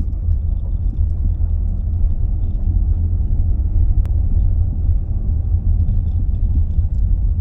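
Steady low rumble of a vehicle driving, engine and road noise heard from inside the cabin.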